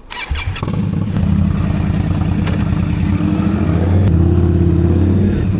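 Motorcycle engine opening up and running under throttle, rising sharply about half a second in and then pulling steadily.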